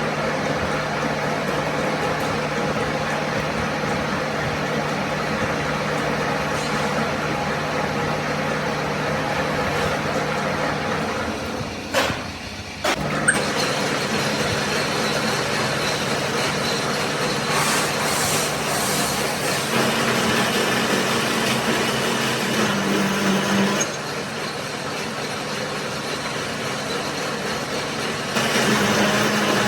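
A machine running steadily with a constant hum and a wide hiss, which stops briefly with a couple of sharp clicks about twelve seconds in and then starts again.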